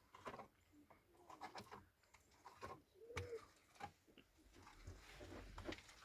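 Faint bird cooing, with scattered light clicks and knocks.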